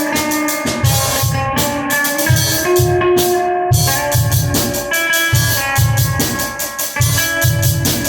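Guitar and drum kit playing a song together, with a steady beat of kick-drum thumps and dense cymbal strikes under sustained guitar notes.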